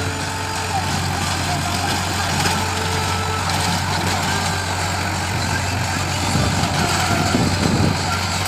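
Powertrac Euro 55 Next 4WD tractor's diesel engine running steadily under load as it drives a rotavator, a little louder near the end.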